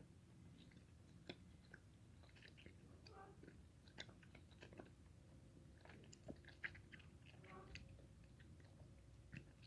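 Faint chewing of a gummy multivitamin: soft, irregular mouth clicks scattered throughout.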